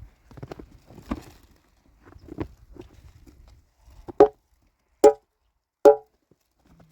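A few soft knocks and steps, then three loud, sharp strikes less than a second apart, each with a brief ringing tone.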